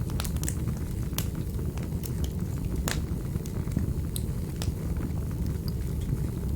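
Wood fire in a fireplace crackling: irregular sharp pops and clicks over a steady low rumble of the flames, with one stronger pop about three seconds in.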